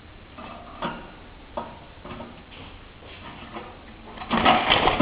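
Fire crackling in a fireplace: a few scattered pops, then a dense, loud run of rapid crackling about four seconds in.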